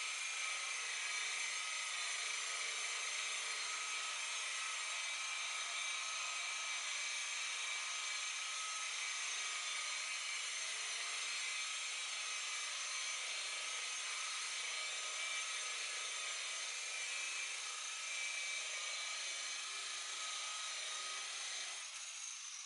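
Electric buffer polishing the boat's oxidised gelcoat with compound, its motor whining steadily; near the end it is switched off and winds down with a falling pitch.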